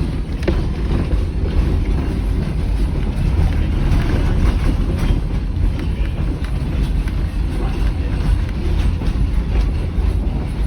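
Running noise of a heritage train under way, heard from inside an early-1920s Evans passenger carriage: a steady low rumble of wheels on the track, with faint scattered clicks and knocks.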